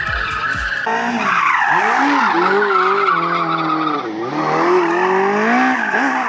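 Fiat 126p with a Honda motorcycle engine swapped in, its engine revving up and falling back several times, over a steady squeal of tyres.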